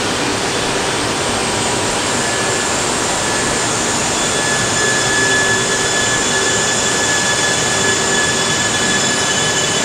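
A Shinkansen bullet train moving along the platform: a steady rolling rush with several thin, high whining tones held over it, growing a little louder partway through.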